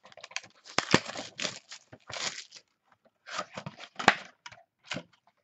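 Packaging of a baseball card box being torn and crinkled open, in irregular rustling bursts with a few sharp clicks, the sharpest about a second in and again about four seconds in.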